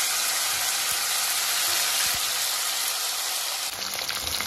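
Raw potato wedges, just added, sizzling steadily in hot mustard oil in a metal kadai. In the last second a spatula starts stirring them, with light scraping against the pan.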